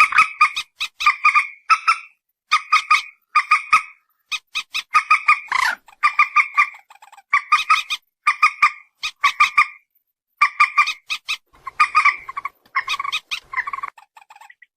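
Lure recording of a paddy-field rail calling: short bursts of rapid, nasal notes repeated about once or twice a second, with a brief pause about ten seconds in.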